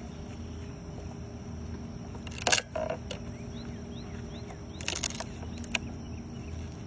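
Steady hum of a honeybee colony buzzing from an open nuc box. About two and a half and five seconds in come two sharp scraping cracks as the glued-down queen cage and its strap are pried loose.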